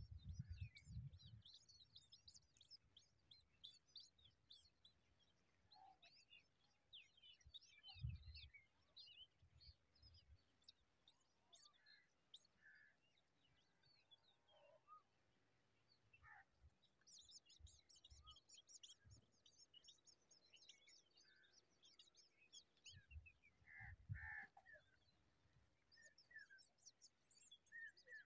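Faint, rapid high-pitched chirping of nestlings begging for food, coming in bursts, with a few occasional low thumps.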